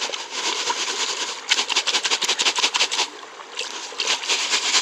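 Gravel and water sloshing and rattling in a gem screen being shaken rapidly back and forth, in two main bouts with a short pause between.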